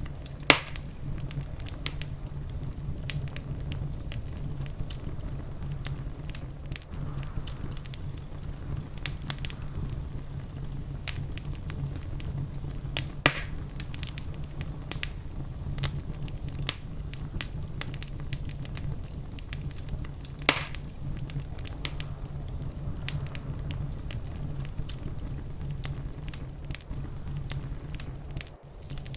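Wood fire crackling in a fireplace: a steady low rumble with constant small crackles and a few louder pops, about half a second in, about 13 seconds in and about 20 seconds in.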